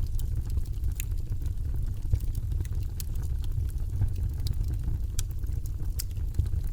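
Wood fire in a fireplace crackling: a steady low rumble of burning with scattered sharp pops and snaps, a handful of louder ones spread through.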